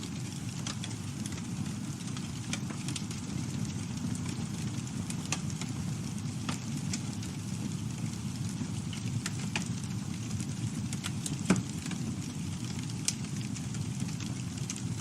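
Campfire burning: a steady low rumble of the flames with scattered crackles and snaps of burning wood, and one louder pop about eleven seconds in.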